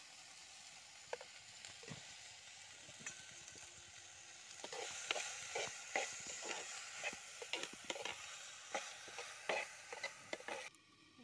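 Sliced onions sizzling as they fry in a clay pot while a steel spoon stirs them, clicking and scraping against the pot. The stirring grows louder and busier about halfway through, and the sizzle cuts off suddenly just before the end.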